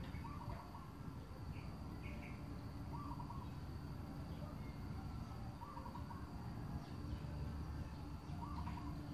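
A bird calling repeatedly, a short phrase about every three seconds, over a steady low rumble of outdoor noise.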